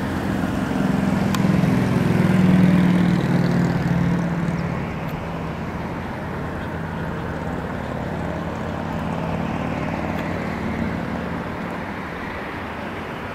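A passing engine drone that grows to its loudest about two to three seconds in and then slowly fades.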